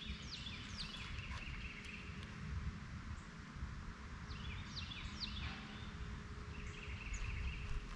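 A songbird singing two phrases, one near the start and one about five seconds in, each a few quick downslurred whistles running into a buzzy trill. A low rumble of wind on the microphone runs under it.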